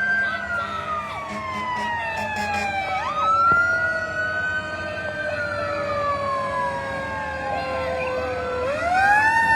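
Several fire truck sirens wailing at once, their pitches slowly falling and then sweeping back up at different moments.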